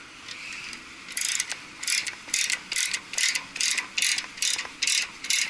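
Ratchet wrench clicking in quick, even strokes, about two or three a second, starting about a second in. It is jacking a loosened cooling-tower fan up off its gear-reducer shaft on threaded rods.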